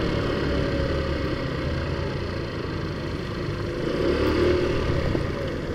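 Taotao Zummer scooter engine running steadily while being ridden at cruising speed, under an even rush of wind and road noise. It swells slightly about four seconds in.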